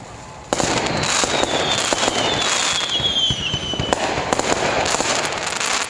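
Fireworks: a sudden burst about half a second in, then dense crackling and popping, with a thin whistle slowly falling in pitch through the middle.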